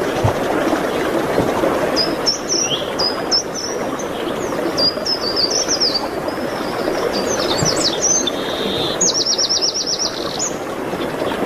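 Songbirds chirping in short high phrases over a steady background hiss, ending with a fast trill of about eight notes a second near the end.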